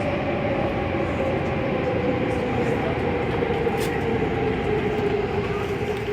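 MTR A-Train electric multiple unit running, heard from inside the carriage: steady wheel and running noise with a traction-motor whine whose pitch slowly falls as the train slows.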